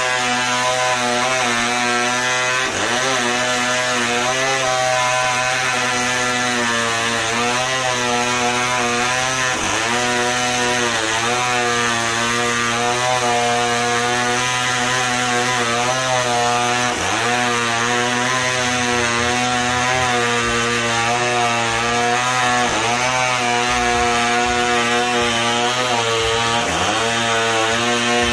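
A sawmill saw cutting wood, running steadily with a loud motor, its pitch briefly dipping and recovering about every five to seven seconds.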